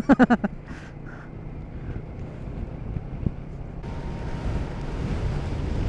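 Motorcycle engine rumbling under wind noise on the rider's microphone. A single sharp click comes about three seconds in, and the wind noise grows louder and fuller from about four seconds in.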